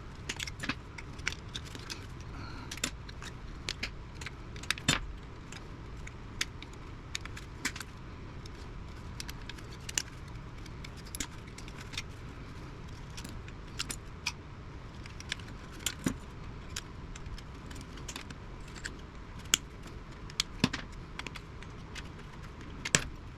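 Irregular metallic clicks and clinks from hand tools and small metal parts as a vintage radio chassis is taken apart, with a few louder clacks scattered through.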